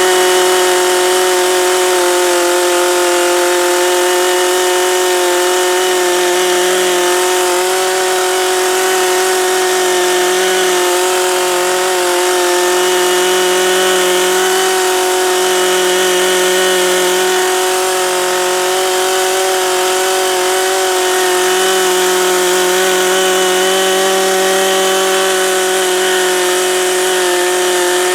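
Chainsaw held at full throttle, cutting into a large oak branch, with a steady high whine that barely changes in pitch.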